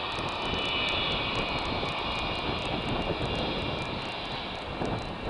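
Jet airliner engines running: a steady rushing noise with a high whine over it, swelling slightly about a second in.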